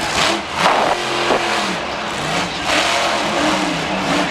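Monster truck's supercharged V8 revving up and down hard during its run, the pitch rising and falling repeatedly, heard distorted through an overloaded camera microphone.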